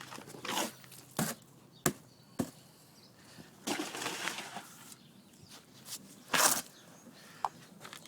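Irregular knocks, clicks and short scraping noises of parts and tools being handled while a new fuel tank pipe is fitted, with the loudest scrape near the end.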